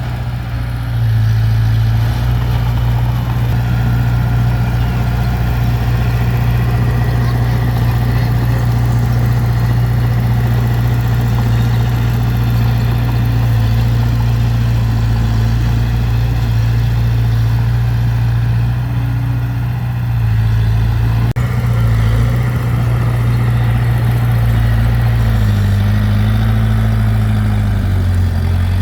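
Diesel engine of heavy earthmoving equipment running steadily at a low, even pitch, with its speed shifting slightly near the end.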